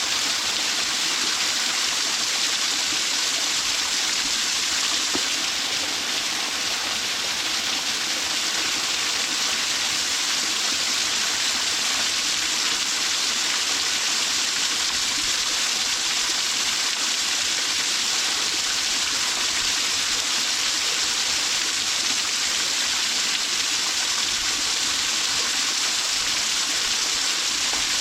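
Waterfall pouring steadily: a constant, hissy rush of falling water.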